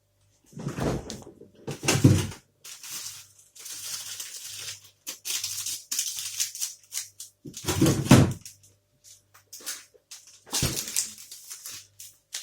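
Close-up rustling and crinkling of a plastic protein bar wrapper being handled, with a few heavier low thumps from handling near the microphone.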